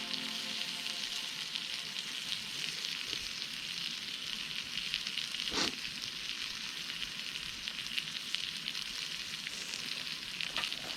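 Food sizzling steadily on a cast-iron griddle plate over a wood fire, a dense crackling hiss, with one brief sharper sound about halfway through.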